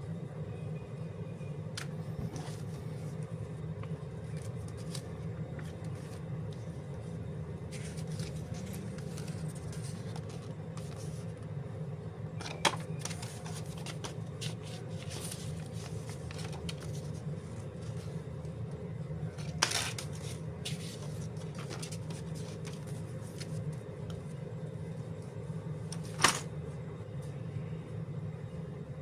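Faint rustling and a few sharp taps from the handling of LEGO parts bags and printed instruction booklets, over a steady low hum in the room.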